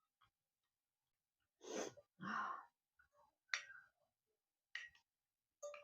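Two breathy exhales in quick succession from a person eating very spicy noodles, followed by a few short mouth clicks.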